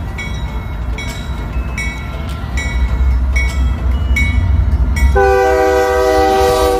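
Diesel freight locomotives rumbling as they pass, growing louder about three seconds in, led by a Union Pacific GE C45ACCTE (ES44AC). About five seconds in the lead locomotive sounds a long blast on its multi-chime air horn.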